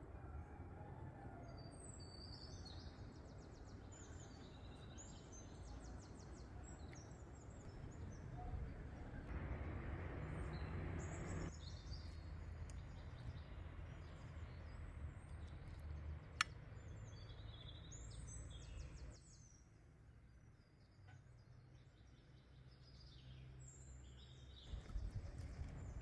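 Small songbirds chirping and trilling over a steady low outdoor rumble, with one sharp click about two-thirds of the way through.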